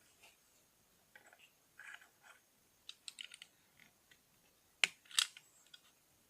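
Plastic Lego bricks being handled: scattered light clicks and rattles, with two sharper clicks a little before the end.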